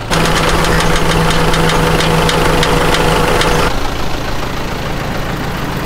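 Tractor engine working harder with a steady whine for about three and a half seconds, which fits the loader lifting the truck, then dropping back to a steady idle. A scatter of sharp clicks and knocks runs through the louder part.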